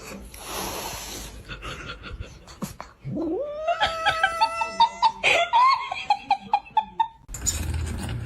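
A cat's long drawn-out yowl starting about three seconds in, rising in pitch and then held, followed by a run of shorter choppy calls until near the end.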